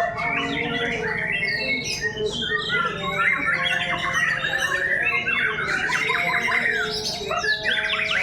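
Several murai (white-rumped shamas) singing at once, with overlapping, fast, varied phrases of trills, whistles and harsh notes, as caged birds do when singing against each other in a song contest.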